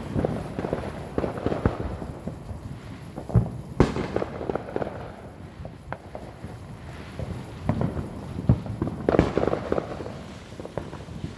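Neighbourhood fireworks and firecrackers popping and crackling in clusters, with one sharper bang about four seconds in.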